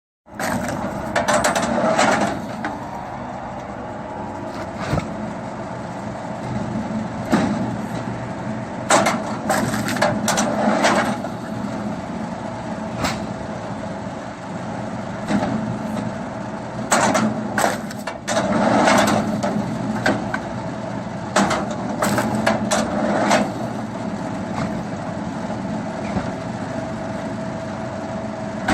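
Firewood splitting machine running steadily, with repeated sharp cracks and bangs as logs are split and fall.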